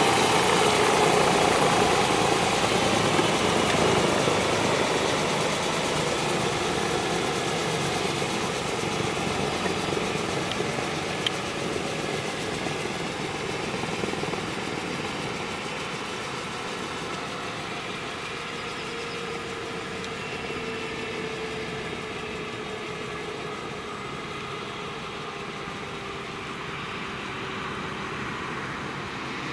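BK 117 C1 helicopter's twin turbine engines and rotor winding down: several whining tones slowly fall in pitch while the sound gradually fades.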